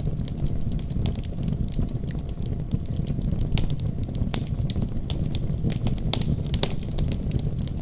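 Fire burning in a fireplace: a steady low roar of flames with frequent, irregular sharp crackles and pops.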